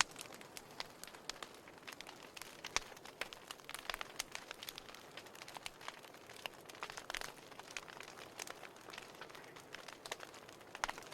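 Burning firewood crackling: an irregular stream of sharp pops and snaps over a soft hiss, with a few louder pops scattered through, one of the sharpest about three seconds in.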